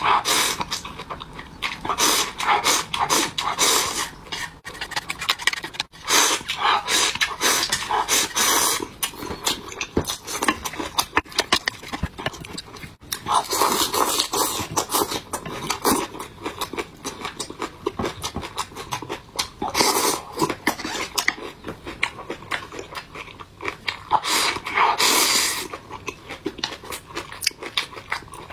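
Close-miked eating: crunchy chewing of soy-sauce-dressed vegetables and slurping of sorghum rice in cold water, coming in irregular bursts.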